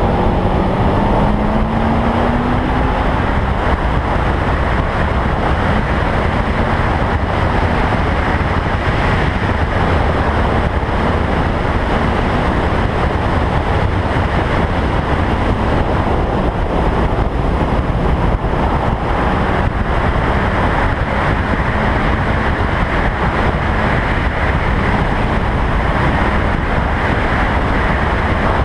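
Wind rushing over an exterior-mounted camera microphone on a Toyota Trueno race car at speed, with the car's engine faintly audible underneath, its pitch rising in the first few seconds as it accelerates.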